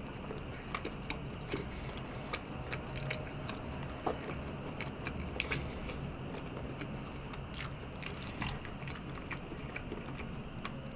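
Chewing of soft French toast close to the microphone, with many small scattered mouth clicks.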